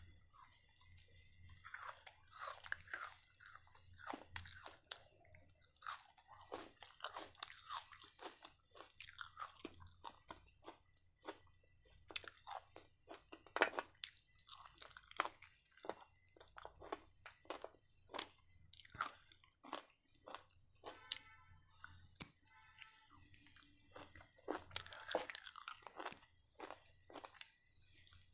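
A person chewing and biting crispy fried chicken kebab: irregular crisp crunches mixed with chewing sounds.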